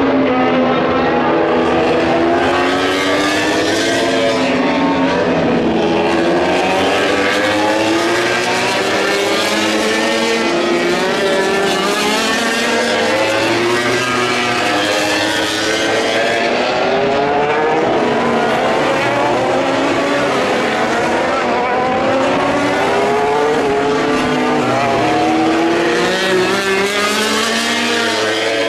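Grand Prix racing motorcycle engines revving hard and passing, several at once. Their pitch climbs through the gears and drops under braking, over and over.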